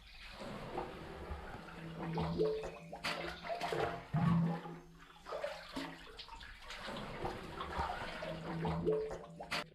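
Water running and splashing, with short breaks about halfway through and again near the end.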